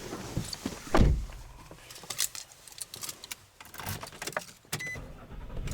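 Handling in a pickup truck's cab: a heavy thump about a second in, then keys jangling and small clicks and rattles. Near the end a short electronic beep sounds and a low steady hum starts.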